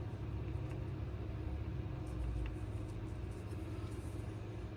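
A steady low hum, like a motor or fan running.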